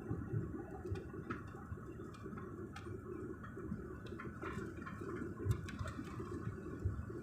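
Airliner cabin noise heard from inside a passenger plane coming in to land: a steady low rumble with scattered light clicks and rattles.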